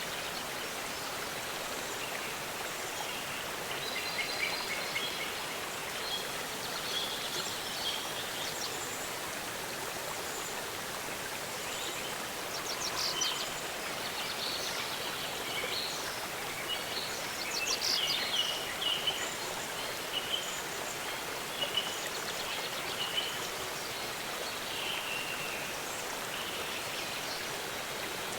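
Steady rush of falling and flowing water, with songbirds calling and chirping over it, most busily about four seconds in and again through the middle.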